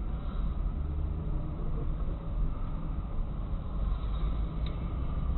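Steady low rumble of a car driving, engine and road noise, with one faint click near the end.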